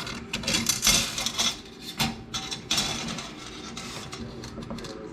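Metal parts of a Honda ATC recoil starter scraping and rasping against each other as they are worked by hand, with several loud scraping strokes over the first three seconds, then lighter clicks.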